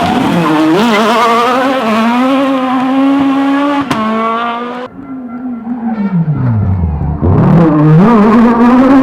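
Rally car engine revving hard along a stage, its pitch climbing and dropping through gear changes. It cuts off abruptly about halfway through, then an engine's pitch falls steeply and climbs back up as a car accelerates away.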